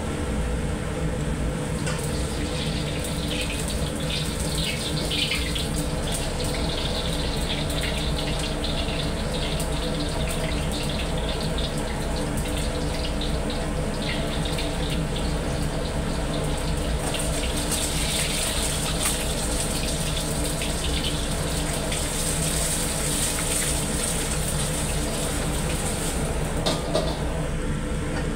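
Egg frying in oil in a wok over a gas wok burner: a steady sizzle and crackle that starts about two seconds in and grows stronger in the second half, over the steady hum of the burner, with scattered clicks of the ladle against the wok.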